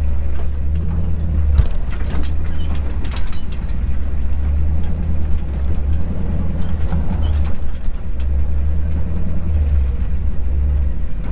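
Off-road recovery vehicle driving over rough trail: a steady low engine and drivetrain rumble with constant rattling and clattering of loose gear and body parts as it bounces.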